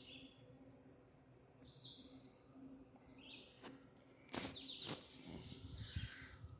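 Small birds giving short, high chirps several times. Near the middle comes a louder rushing, hissing noise lasting about two seconds.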